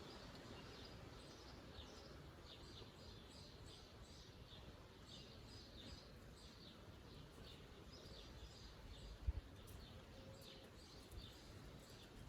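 Faint songbirds chirping, many quick high chirps in a row, over a low background rumble. A brief low thump about nine seconds in.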